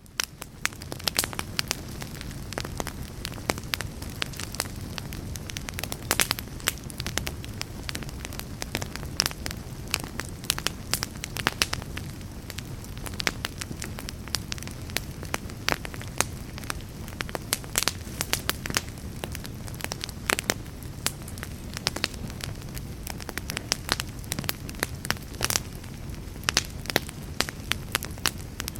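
Wood fire crackling in a fireplace: frequent, irregular sharp snaps and pops over a steady low rush, fading in at the start.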